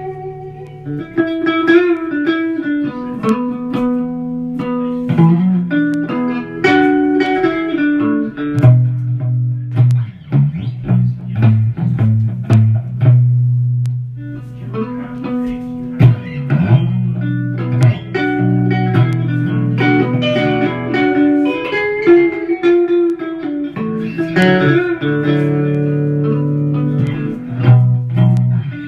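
Guitar playing a blues riff: plucked notes and runs over long, held low notes.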